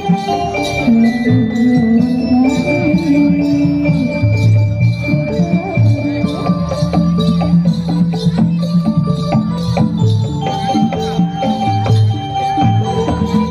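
Javanese gamelan music accompanying a jaranan horse dance: struck bronze metallophones and gongs holding ringing notes over a steady, driving drum rhythm.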